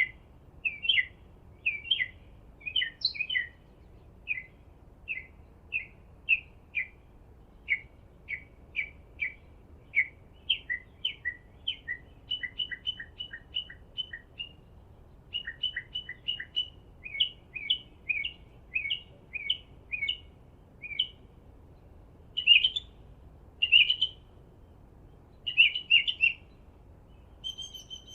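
Meadow bird chirping: a long series of short, quick chirps, about two a second, with a few louder notes near the end.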